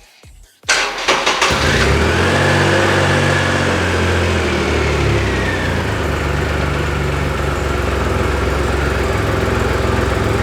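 2007 Triumph Rocket III's 2.3-litre three-cylinder engine turned over briefly on the electric starter, catching about a second and a half in and settling into a steady idle.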